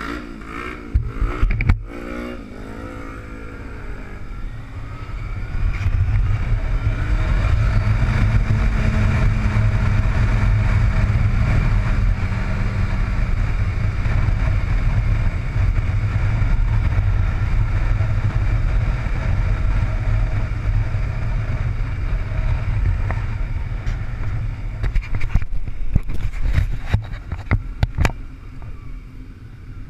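Motorcycle engine running, with a wavering pitch in the first few seconds. From about five seconds in it settles into a loud steady rumble under a rush of wind noise, then turns uneven and eases off near the end.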